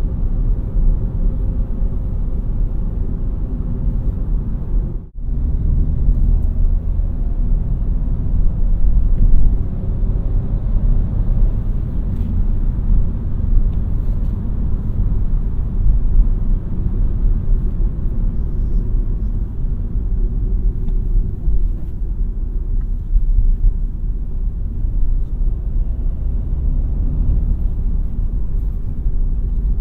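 A Renault Mégane TCe 100 with a 1198 cc turbocharged four-cylinder petrol engine driving along, with steady engine drone and low road rumble. There is a short break in the sound about five seconds in.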